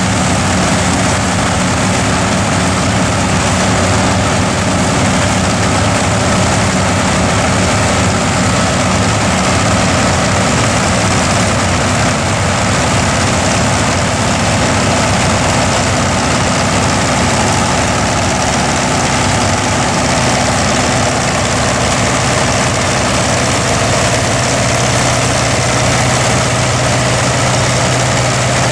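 Massey Ferguson tractor engine running steadily while it works a forage harvester cutting silage. About two-thirds of the way through, the engine note shifts to a lower, stronger hum.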